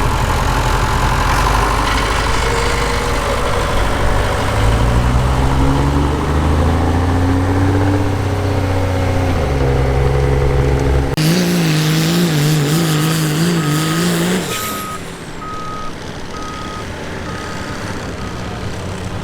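Diesel pickup pulling a weight sled at full throttle, its engine note rising and then falling, changing abruptly about eleven seconds in to a wavering note for a few seconds before it drops away. A reversing beeper then beeps steadily, about once a second.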